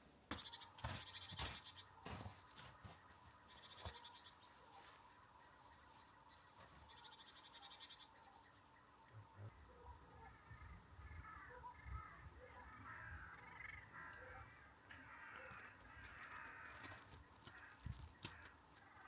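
Quiet outdoor sound with faint twittering calls of small songbirds, mostly in the second half, and scattered clicks and rustles in the first half.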